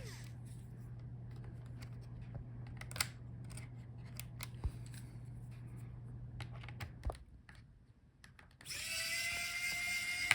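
Scattered clicks and taps of small parts being handled, then a cordless electric screwdriver's motor running with a steady whine for about a second and a half near the end, backing out a motherboard screw.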